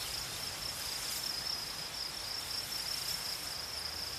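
Steady high-pitched insect trill, unbroken throughout, over faint background hiss.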